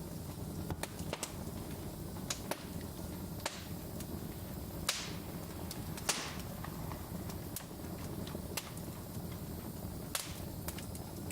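Wood fire burning in a fireplace: a steady low rumble of flames with irregular sharp crackles and pops, two louder pops about five and six seconds in.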